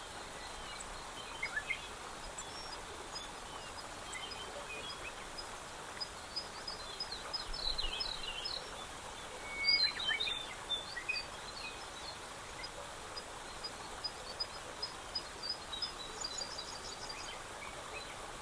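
Several small birds chirping and trilling over a steady hiss of outdoor background noise. The calls are busiest about halfway through.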